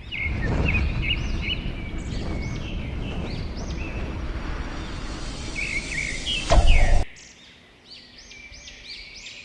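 Small birds chirping over and over in quick arched calls, over a steady rushing background noise that cuts off suddenly about seven seconds in. A loud thump just before the cut is the loudest sound.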